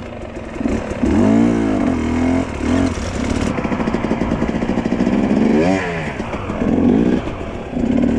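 Dirt bike engine running and being revved, its pitch sweeping up and down about a second in and again near six seconds, with steady running between.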